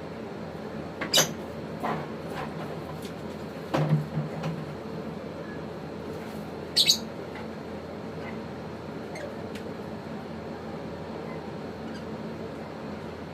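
A few brief high chirps and sharp clicks from African lovebirds, with a short low knock about four seconds in, over a steady background hum.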